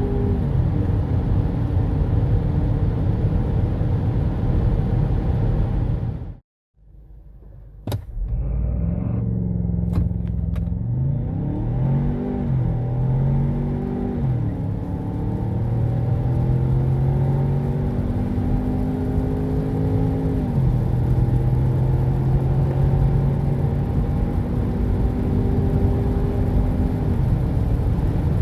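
Ford Bronco Sport Badlands' 2.0-litre EcoBoost engine accelerating hard through the gears of its 8-speed automatic: the engine note climbs and drops back at each of several upshifts. Before the run, a steady drone of driving at speed, then a short break and a few clicks.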